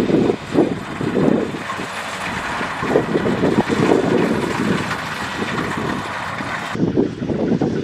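Kubota DC-70 Plus combine harvester running steadily, its diesel engine and machinery giving a continuous mechanical noise with uneven low rumbling surges. The high hiss drops away sharply near the end.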